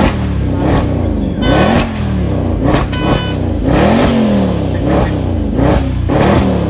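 Mercedes-Benz C63 AMG's 6.2-litre V8 running loud under repeated revving, its pitch rising and falling over and over.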